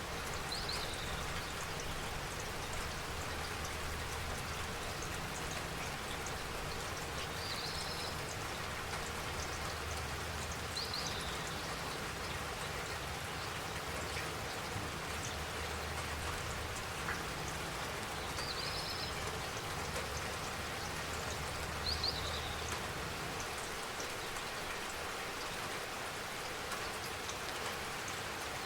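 Steady rain with a dense patter of drops. A short, high chirp sounds about five times, a few seconds apart.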